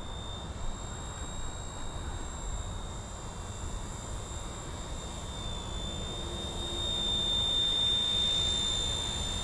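Small electric RC helicopter, an RCERA Bell 206 Jet Ranger, in flight: a steady high-pitched whine from its motor and rotors, wavering slightly in pitch and growing louder about seven seconds in, over a low rumble.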